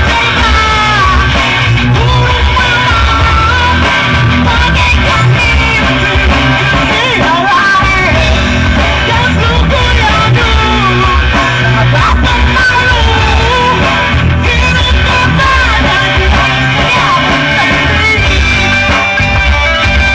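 An amateur band playing a rock song live and loud, with a melody line that bends in pitch over guitar and a heavy bass.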